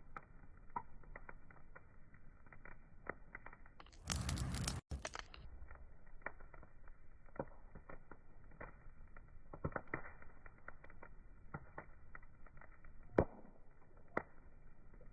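Wood fire crackling, with irregular sharp pops over a low hiss. About four seconds in, a louder burst of hiss lasts just over a second and is broken by a momentary dropout.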